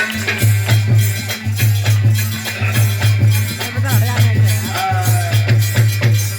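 Live instrumental folk music: rapid drum strokes and rattling percussion over a steady low tone that pulses with the beat.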